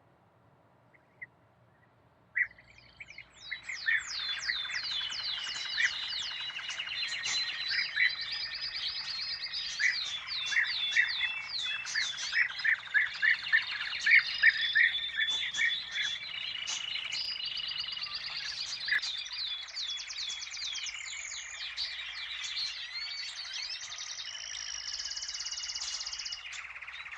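Several songbirds singing together in a dense chorus of quick chirps and fast downward-sweeping whistled notes. The chorus starts a couple of seconds in, after near quiet.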